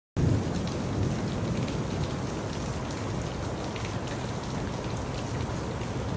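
Steady heavy rain with individual drops ticking through it and a low rumble underneath. It starts abruptly at the very beginning and holds steady throughout.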